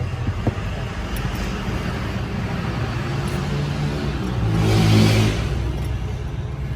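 A car engine running steadily, swelling louder for a moment about five seconds in and then settling back.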